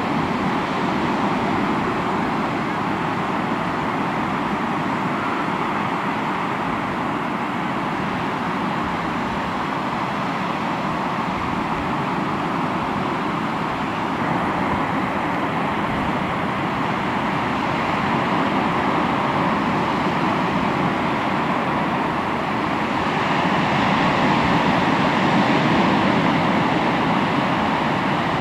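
Sea waves washing onto the shore in a steady rush of surf, swelling louder near the end.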